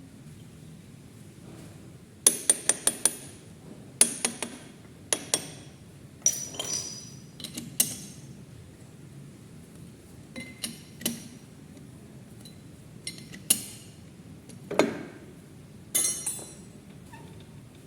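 Metal clinking and tapping as steel tools and parts are handled at a lathe: a quick run of about five sharp strikes a couple of seconds in, then scattered single clinks and knocks.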